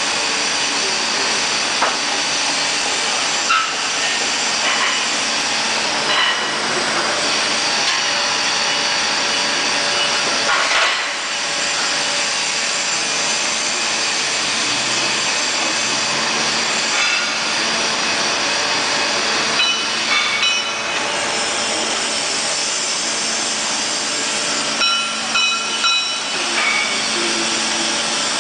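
End-grinding machine running steadily: a dense hiss with steady whining tones, broken by occasional clicks and brief high squeaks that cluster near the end.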